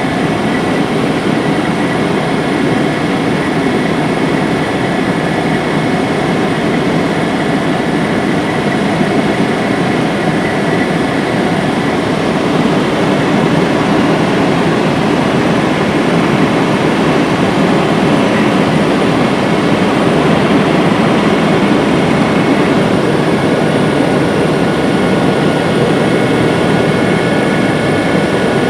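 Helicopter cabin noise in cruising flight at about 200 km/h: a loud, steady rush of engine and rotor noise with a few faint, constant whining tones.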